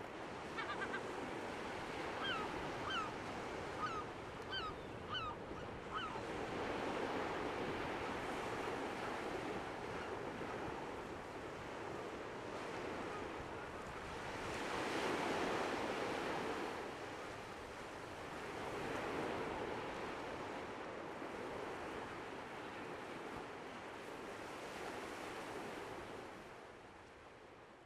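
Sea waves washing on a shore, swelling and ebbing, with a run of short, falling bird calls in the first few seconds; the sound fades out near the end.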